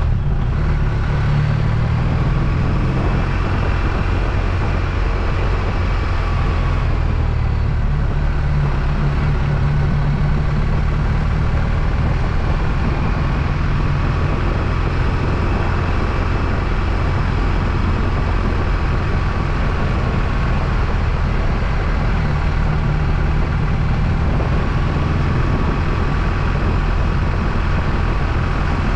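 BMW R1250RT motorcycle's boxer-twin engine running steadily while being ridden, with road noise.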